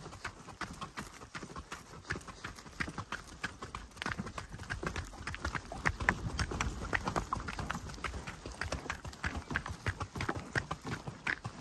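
A quick, uneven run of footfalls on a dirt forest track, several steps a second, with the loudest cluster about six seconds in.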